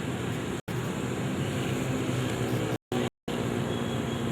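Steady rumbling outdoor noise, broken three times by brief dropouts to total silence.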